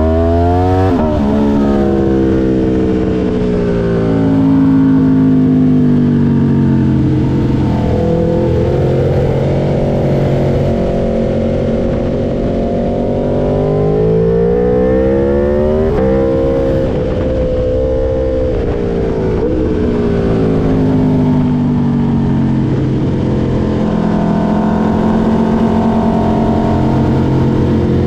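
2022 Aprilia RSV4 V4 engine through an SC Project S1 titanium exhaust, heard from on board at track pace. The revs climb and fall repeatedly as the bike accelerates and slows through corners, with sudden steps in pitch at gear changes about a second in and again near the middle.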